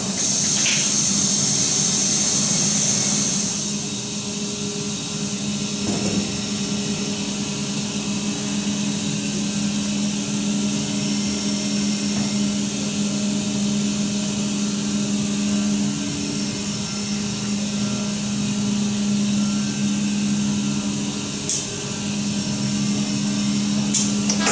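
Steady hum of print-shop machinery, with a constant low tone and a few higher fixed tones. It is louder, with a hiss, for the first few seconds, and there are two short clicks near the end.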